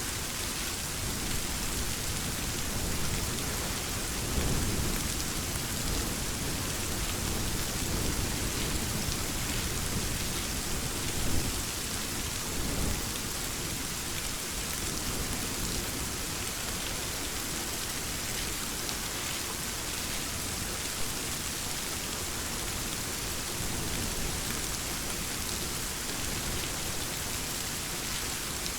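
Steady rain falling, with low rolling thunder rumbles that swell in from about four seconds in and die down around thirteen seconds, peaking sharply near the middle of that stretch.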